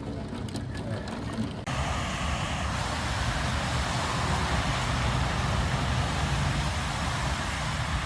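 Storm noise: scattered light ticks of falling drops at first, then, about a second and a half in, an abrupt change to a loud, steady rush of heavy rain with a low wind rumble.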